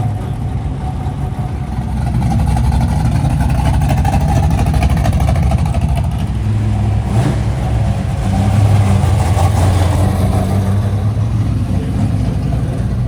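A classic car's engine running and accelerating as it pulls away, getting louder about two seconds in and again around eight seconds.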